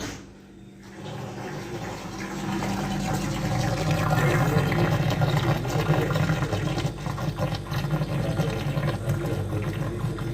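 Refrigerator gurgling like water beginning to fall, starting about a second after the door is shut and building, over the steady hum of the compressor. The technician attributes it to the vacuum created by closing the door sucking air through the defrost drain hole, harmless to the fridge. He also suggests its drain pipe may be sitting in water collected in the tray.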